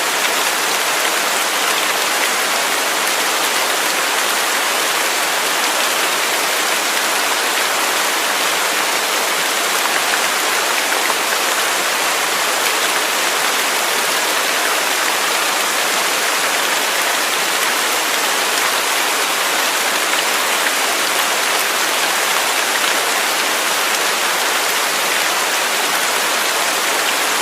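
Waterfall: a steady, even rush of falling water, with no change throughout.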